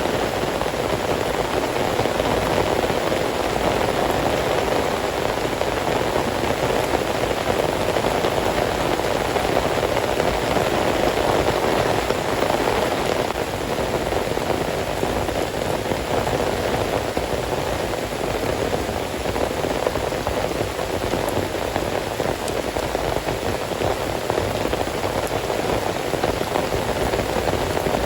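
Heavy rain falling steadily, a dense even hiss, easing a little about halfway through.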